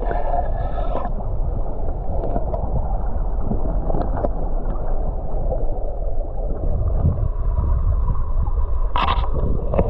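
River water heard underwater: a steady, muffled rushing and gurgling with a deep rumble, as picked up by a GoPro camera submerged in the current.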